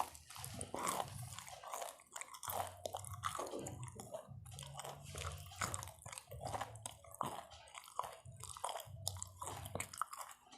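A person biting and chewing food, with irregular crunches several times a second.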